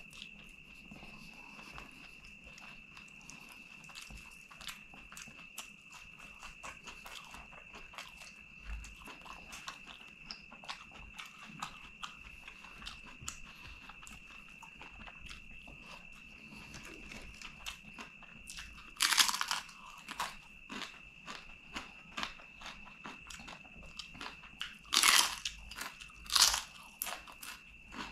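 Close-up eating by hand: mouth-close chewing of rice and curry with many small wet clicks. Three loud crisp crunches come in the last third, as fried papadam is bitten. A steady high whine sits behind it throughout.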